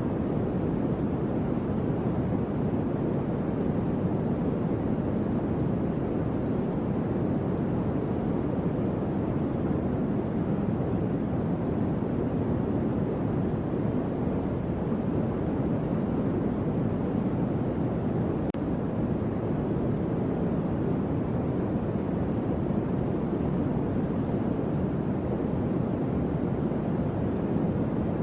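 Electric fan running steadily: an even, low whooshing hum of moving air that never changes in level.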